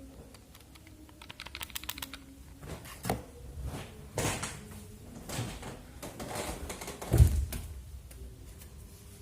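A series of light clicks and taps, including a quick run of clicks about a second and a half in, then a loud dull thump about seven seconds in, over a faint steady hum.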